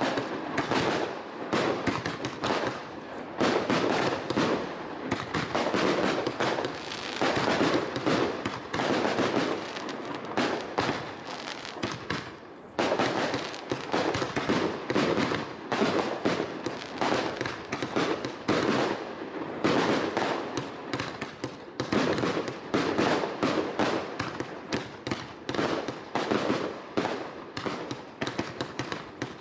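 Professional fireworks display: a dense, continuous barrage of rapid, overlapping shell bursts and bangs, with a short lull about twelve seconds in before the bursts resume.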